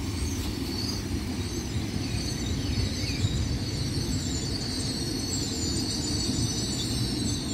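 Great Western Railway Class 800 intercity train (800321) running into the station past the platform: a steady rumble of wheels on rail, with a thin high whine above it.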